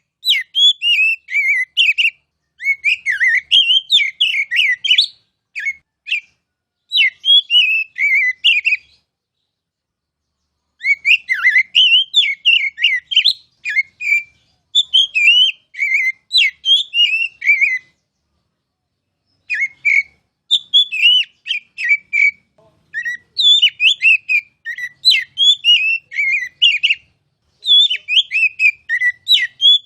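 Oriental magpie-robin (kacer) singing: fast, varied whistled phrases of rapidly gliding notes, each run lasting a few seconds, broken by short pauses.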